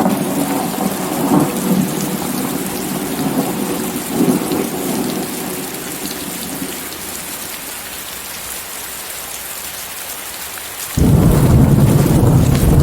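Steady rain with thunder, mixed with white noise. A rumble of thunder starts at the outset, swells twice and fades out over about seven seconds; about eleven seconds in a louder, deeper peal breaks in suddenly.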